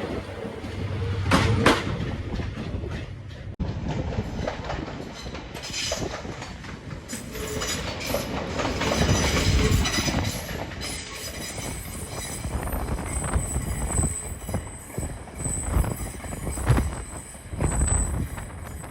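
A train running through a station, its wheels knocking over rail joints. A thin, high wheel squeal joins in over the second half.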